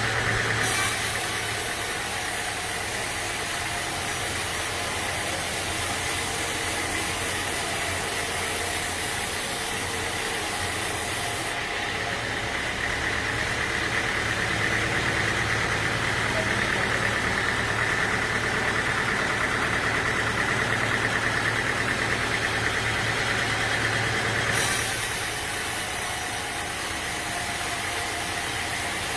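Sawmill engine running steadily, with a high whine over a low hum. A high hiss over it stops abruptly partway through and comes back abruptly near the end.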